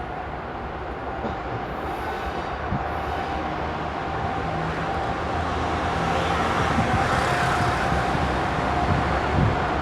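GE Dash 8 and Dash 9 diesel-electric locomotives hauling a freight train, their engines running steadily with a steady high whine, growing gradually louder as they draw closer.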